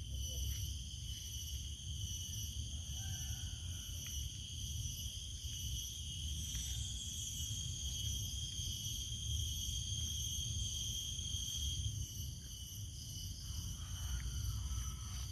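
A steady chorus of insects, crickets or the like, shrilling without a break on several high pitches at once, over a low rumble.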